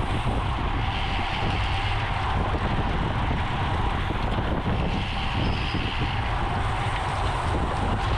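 Steady wind rushing over the microphone, with the hiss of tyres on the road, as from a camera riding along in a bicycle race.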